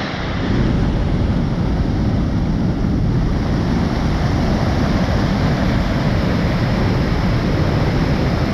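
Steady rushing of whitewater pouring over a waterfall, a dense noise heaviest in the low end.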